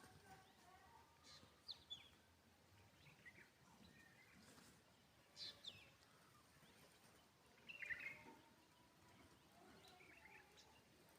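Faint, scattered bird chirps over a quiet outdoor background, with a few short high calls standing out about two, five and a half, and eight seconds in.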